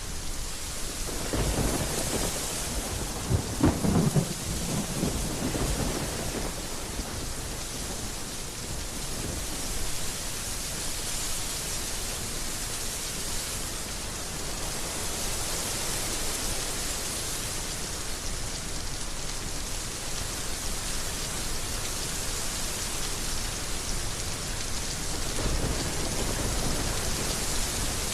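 Heavy rain falling steadily, with a roll of thunder rumbling and crackling a second or two in, peaking around four seconds, and another rumble building near the end.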